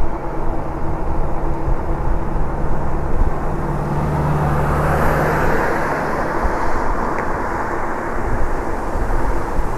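Wind rushing over the microphone of a moving e-bike, with a steady hum through the first half. A vehicle passes about five seconds in: road noise swells and fades.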